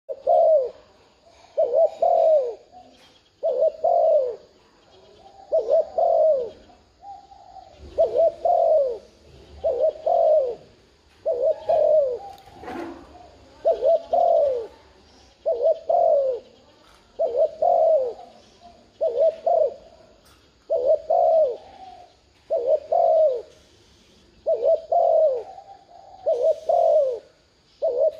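Spotted dove giving its 'thúc gù' cooing call: short, hollow, falling coos in quick clusters, repeated about every two seconds. It is the urging coo that keepers play as a lure to set a caged dove calling.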